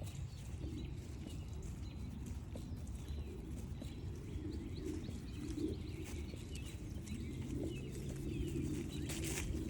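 Footsteps walking along a forest trail, with a few faint bird chirps in the background.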